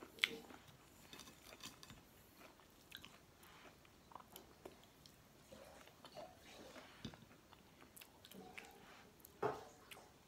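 Faint, close-up eating sounds of a person chewing fried galunggong fish, rice and tomato picked up by hand: soft mouth clicks and smacks. A louder click about nine seconds in.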